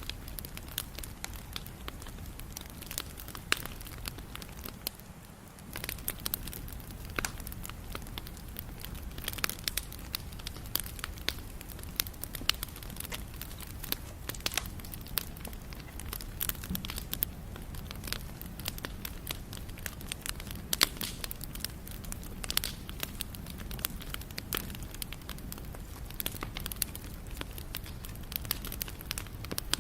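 Campfire burning: wood crackling and popping in sharp, irregular snaps over a steady low rumble of the flames. The sound dips briefly about five seconds in.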